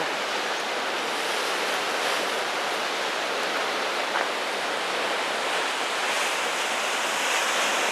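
Steady rushing wash of Pacific surf breaking at the foot of sea cliffs, mixed with wind.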